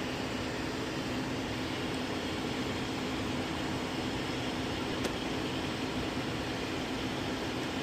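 Car air conditioning running: a steady blower rush of air with a constant low hum under it.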